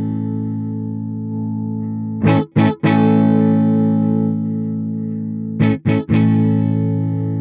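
Electric guitar with humbucker pickups played through a Peace Hill FX TR tube preamp. A held chord rings, then about two seconds in three quick strums lead into another sustained chord, and the same happens again near the end.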